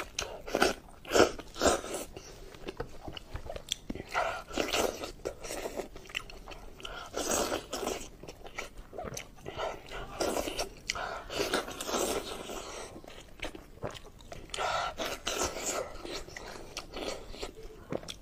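Close-miked eating of sheep's head meat: irregular wet chewing, smacking and biting sounds, repeated every second or so.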